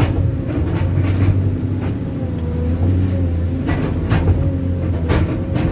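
Backhoe's diesel engine running steadily under load as it climbs a slippery, rain-soaked slope, with a wavering whine over the low drone and a few short knocks.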